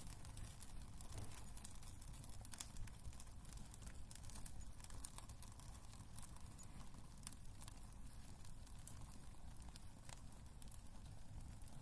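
Wood fire crackling in a fireplace: irregular sharp pops and snaps over a low, steady rumble and hiss.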